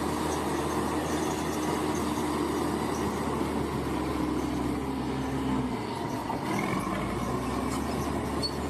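Bulldozer diesel engine running steadily under work, with track noise. About six seconds in, the low engine note drops briefly and a short rising whine comes through.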